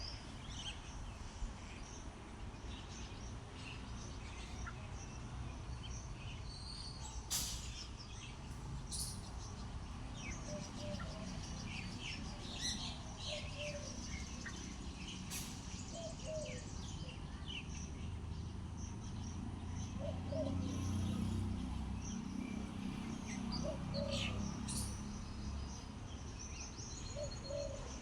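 Wild birds chirping and calling: many short, scattered chirps and a few sharp clicks over a steady low rumble that grows louder in the second half.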